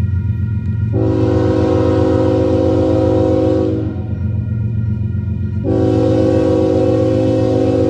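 Diesel freight locomotive's multi-chime air horn sounding two long blasts, the first about a second in and the second starting near 6 s, over the steady low rumble of the locomotive.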